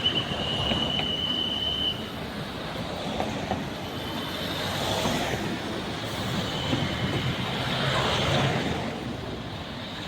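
Passenger train rolling slowly along the platform, with a high steady wheel-and-brake squeal for the first couple of seconds and fainter squeals later.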